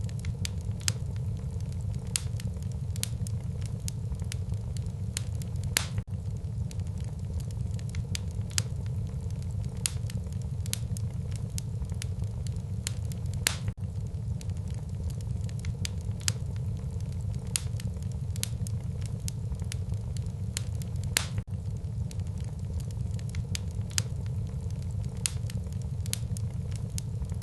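Wood fire burning in a fireplace: a steady low rumble of flames with sharp crackles and pops at irregular intervals, a few of them louder snaps.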